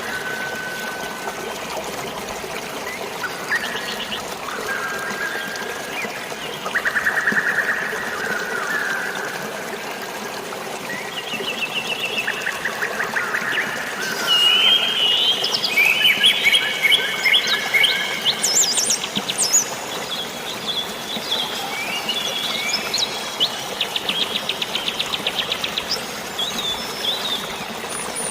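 Several birds chirping and trilling, their calls overlapping and busiest in the second half, over a steady hiss of rain and running water.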